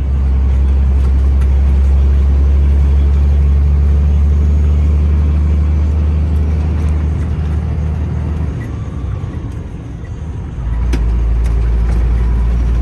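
Semi truck's engine running under load, heard inside the cab while driving: a steady low drone. About nine seconds in it eases off briefly, then picks up again at a slightly lower pitch.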